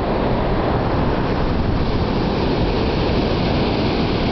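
Steady rushing of ocean surf breaking on the beach, with a low rumble of wind on the microphone.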